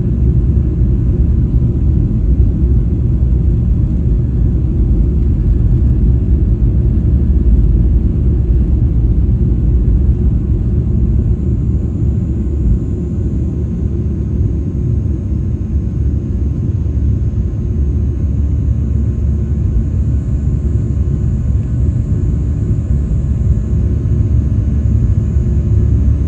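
Boeing 737-800's CFM56-7B jet engines at takeoff power, heard from inside the cabin, over the heavy rumble of the takeoff roll. About twelve seconds in, the aircraft lifts off: the deep runway rumble eases, the sound gets a little quieter, and the engines carry on into the climb with a faint high whine.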